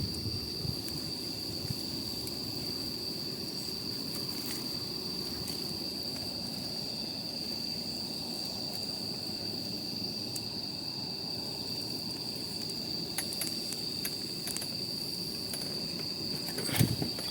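Campfire burning with scattered small crackles and one louder pop near the end, over a steady, unbroken high-pitched insect trill.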